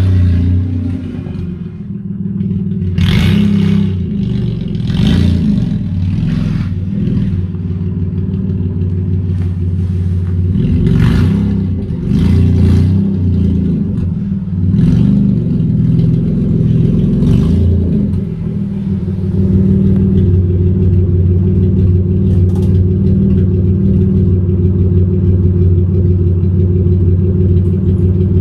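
Vauxhall Vectra GSi's V6 engine running, its speed rising and falling with short revs and several sharp clacks. About two-thirds of the way through it settles into a steady idle.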